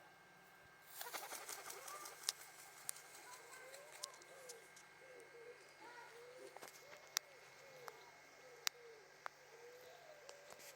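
A bird calling over and over in short, soft, coo-like notes, about one to two a second, starting about a second in, with a few sharp clicks among them.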